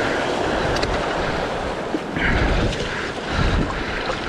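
Sea surf washing in, with wind buffeting the microphone in a steady low rumble.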